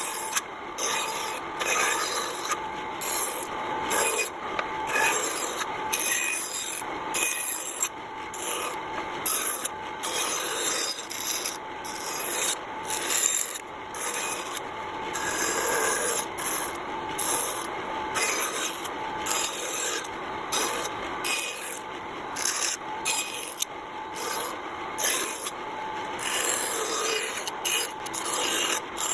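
A hand tool working a wooden surface: continuous scraping that swells and eases unevenly, without a steady stroke rhythm.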